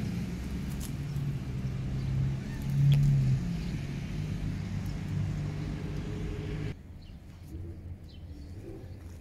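Motor vehicle engine rumbling, swelling loudest about three seconds in. The rumble cuts off suddenly about seven seconds in, leaving a quieter stretch with a few faint clicks.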